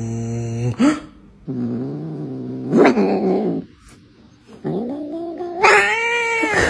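A cat yowling and growling in three long, drawn-out calls, the last one rising higher in pitch.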